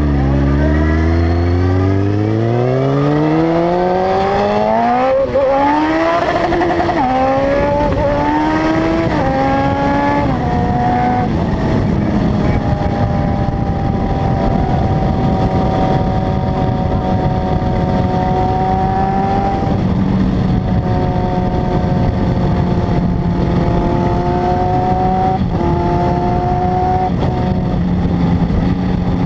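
Honda CB900F's inline-four engine and exhaust under way, revving up through several upshifts in the first ten seconds or so, then holding a steady cruise with small rises and falls in revs.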